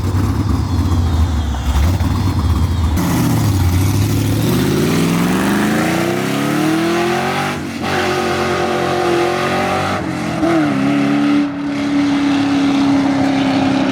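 Pontiac GTO's V8 pulling away hard. It rumbles low at first, then the note climbs through the revs, drops at a gear change about eight seconds in, rises again and holds a steady higher note. It sounded bonkers.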